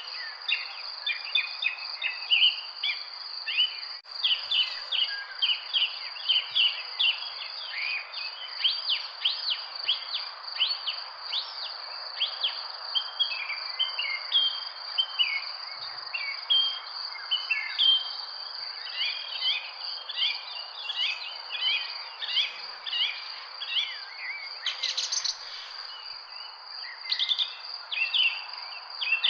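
Many small birds chirping and calling continuously in a dense chorus, over a steady, unbroken high-pitched insect trill and a soft background hiss.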